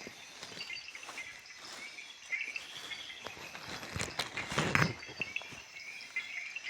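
Night-time rainforest insects chirping steadily, with footsteps on the forest floor and a louder rustle about four and a half seconds in.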